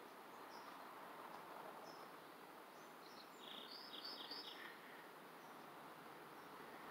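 Near silence: faint outdoor ambience, with a small bird chirping a quick run of four or so high notes about three and a half seconds in.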